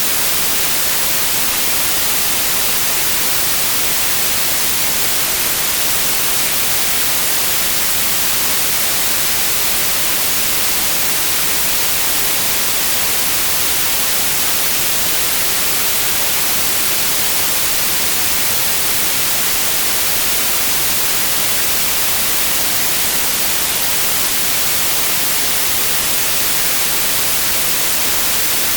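Steady white noise, an even hiss that is strongest in the high frequencies and does not change.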